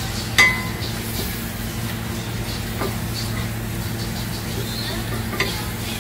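Blended spice paste sizzling in hot oil as a wooden spatula stirs and scrapes it around the pot. A sharp knock with a short ring comes about half a second in, the loudest sound here, and a smaller knock near the end.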